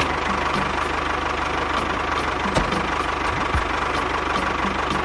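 A small engine running steadily at a constant speed, with a fast, even firing beat.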